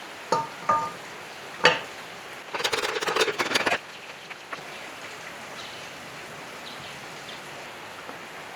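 A few sharp knocks, two with a brief ringing tone, then a rattling clatter for about a second, and after that only a steady background hiss.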